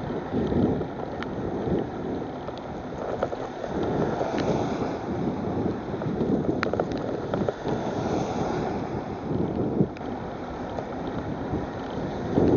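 Wind buffeting the microphone: an uneven, gusting rumble of noise, with a few faint clicks.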